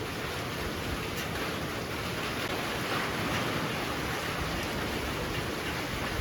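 Heavy rain pouring steadily, a dense even hiss that swells slightly in the middle.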